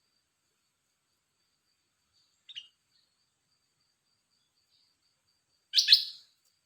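Caged red-whiskered bulbul calling: a short soft call about two and a half seconds in, then a loud quick two-note call near the end. A faint steady high insect trill runs underneath.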